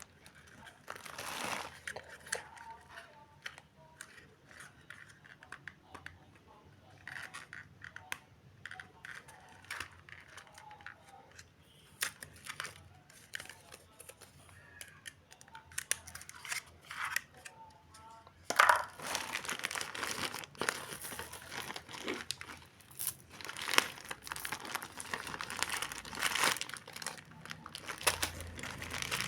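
Parcel packaging crinkling and tearing as it is unwrapped by hand. Scattered rustles and clicks at first, then steady, louder crinkling from about two-thirds of the way in.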